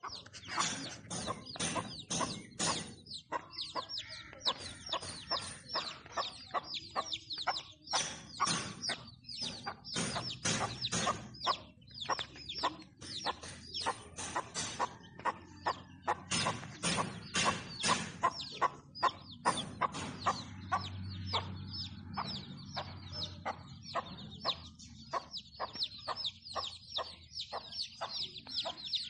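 Domestic chicks peeping, many short high calls sliding downward in quick succession without a break, with a hen clucking among them.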